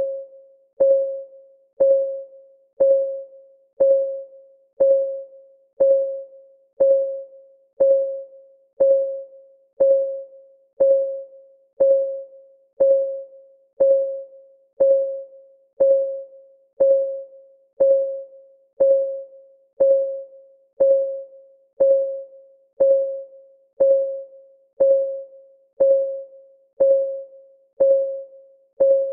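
Clock ticking sound with one tick a second, each tick a sharp click followed by a short ringing tone that dies away quickly.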